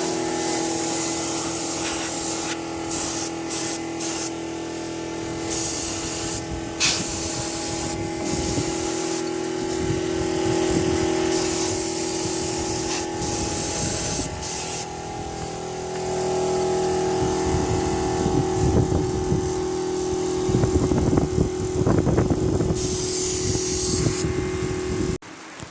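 Spray gun hissing in repeated on-off bursts over a steady motor hum, as primer goes onto a tractor; the sound cuts off abruptly near the end.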